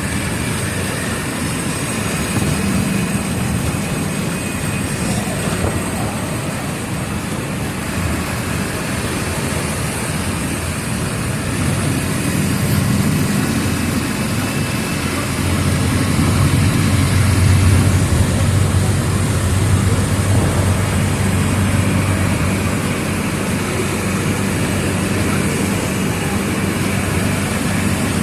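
Diesel engine of a Mercedes-Benz OF 1722M city bus running as the bus drives, with road noise. The engine note grows louder about halfway through, then eases back.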